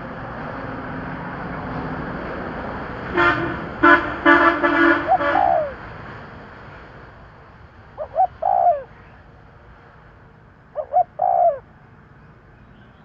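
Spotted dove cooing in short curved phrases, three times about three seconds apart. Over the first few seconds a vehicle draws near, then its horn honks in a rapid series of blasts, the loudest sound.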